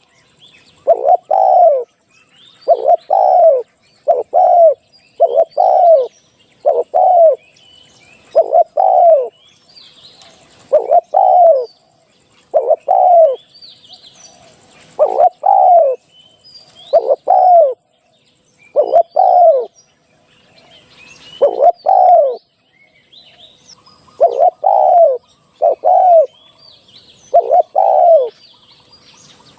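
Spotted dove cooing over and over: short, loud, falling notes in groups of two or three, a group about every two seconds. Faint high chirps of other small birds between the coos.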